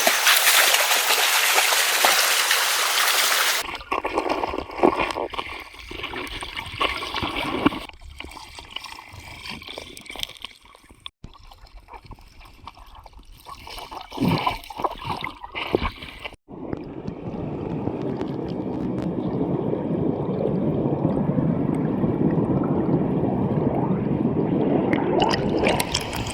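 Running water heard across several cuts: a loud, even rushing hiss at first, then quieter splashing with scattered knocks, and from just past halfway a steady, lower gurgling flow.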